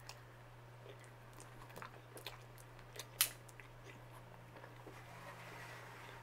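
Close-miked chewing and wet mouth sounds of someone eating spaghetti, with scattered small clicks and one sharper click about three seconds in. A steady low hum runs underneath.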